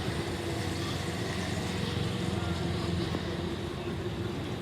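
An engine running steadily: a low rumble with a steady hum.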